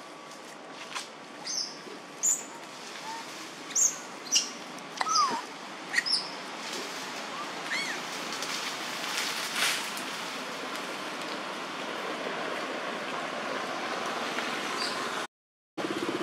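Short, high bird chirps and calls, scattered and strongest in the first half, over a steady outdoor hiss; the sound cuts out briefly near the end.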